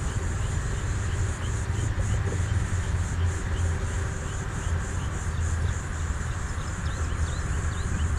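Outdoor ambience without speech: a steady low rumble, with a faint high chirring that pulses about three times a second and small repeated chirps.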